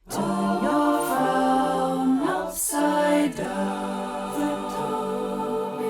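Wordless a cappella vocal harmony, several voices singing together as an opening jingle, with a brief swish and a break about two and a half seconds in before the voices resume.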